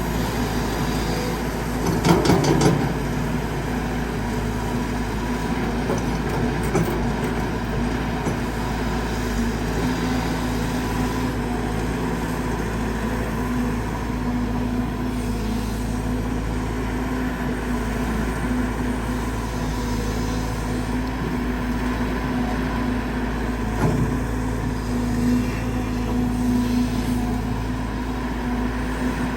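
Caterpillar 320GX excavator's C4.4 four-cylinder diesel engine and hydraulic pump running steadily under load while digging hard laterite soil. There is a loud clatter about two seconds in and a lighter knock later on.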